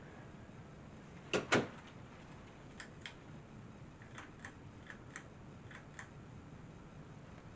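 A ceiling fan's switch clicking sharply twice, then lighter ticks in pairs over the low hum of the 42-inch King of Fans Spectrum II hugger ceiling fan.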